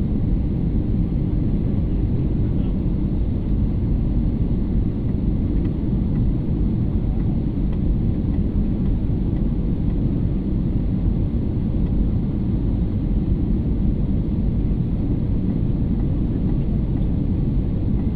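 Steady low rumble of an airliner's cabin noise in flight, engine and airflow noise holding at an even level without change.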